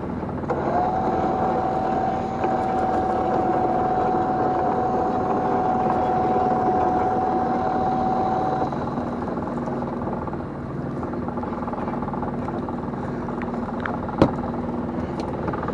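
Small fishing boat's engine running steadily, with a steady high whine from the deck machinery over the first eight seconds or so and a single sharp knock near the end.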